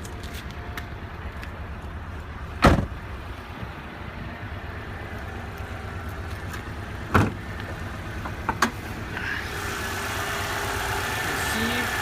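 Subaru Legacy B4's 2.0 L twin-turbo boxer four idling steadily, with one loud thump about two and a half seconds in and two lighter knocks later. Near the end the engine sound grows louder and brighter, with a faint steady whine.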